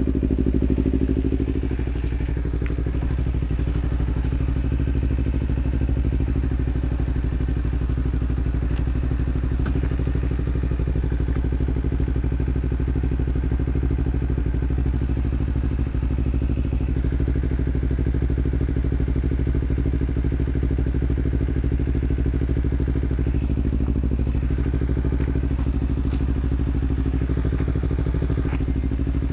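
Kawasaki Ninja 250R's parallel-twin engine running at a steady, nearly constant speed, with a little clatter.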